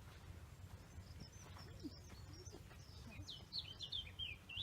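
A small songbird singing high, quick chirps that run into a rapid string of notes near the end, over a steady low rumble.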